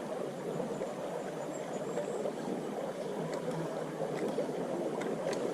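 Small stream running over stones, a steady babbling flow of water.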